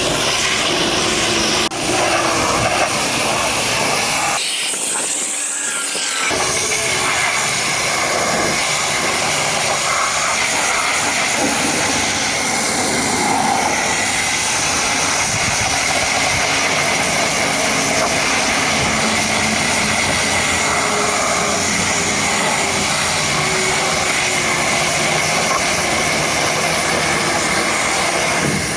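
High-pressure washer spraying water, a steady loud hiss. The low rumble drops out briefly about five seconds in.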